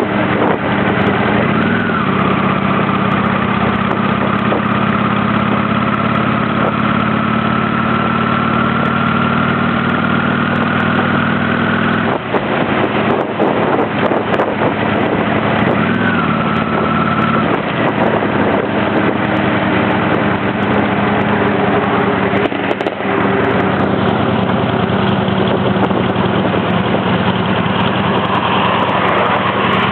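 Honda Shadow 600's V-twin engine running under way, heard from the bike over a noisy rush of wind. Its note dips and picks up again about two seconds in and again around the middle, and rises near the end as the rider changes speed.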